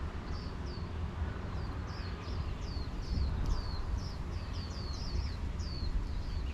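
Strong wind rumbling on the microphone, while a small bird repeats short, high, falling chirps, two or three a second.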